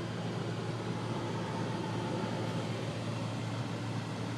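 Steady engine and tyre rumble of a car driving, heard from inside the cabin.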